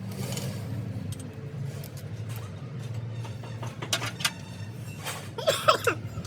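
Engine idling with a steady low hum, with a few sharp metallic clicks about four seconds in and a brief voice or call near the end.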